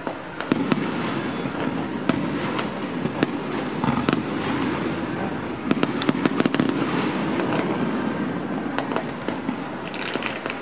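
Fireworks display: a continuous low rumble of shell bursts with sharp bangs on top. The bangs come thickest about six seconds in, and a spell of fine crackling follows near the end.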